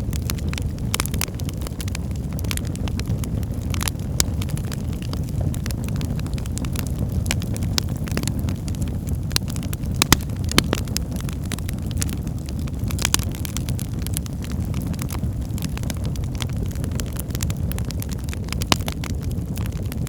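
Wood fire burning in a fireplace: a steady low rumble of the flames with frequent sharp, irregular crackles and pops, a few louder pops about halfway through.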